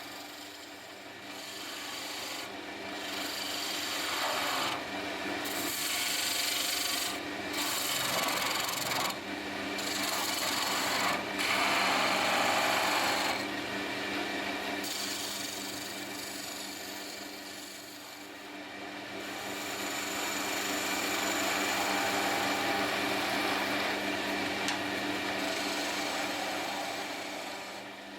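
Wood lathe running with a steady motor hum while a tool or abrasive works the spinning wooden handle blank. The rasping swells and eases in waves, with short breaks.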